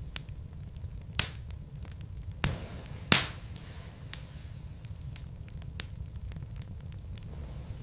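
Wood logs burning in a fireplace, crackling with frequent small clicks over a low steady rumble. Three louder pops stand out, the loudest about three seconds in.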